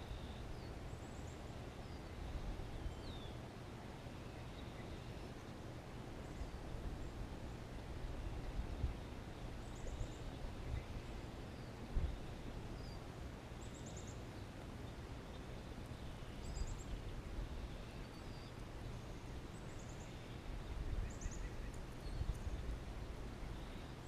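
Faint wild birdsong: short high chirps and little trills every few seconds over a steady low rumble.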